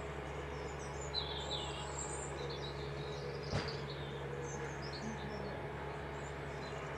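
Small songbirds chirping and twittering in short, scattered high calls over a steady low hum, with a single sharp click about three and a half seconds in.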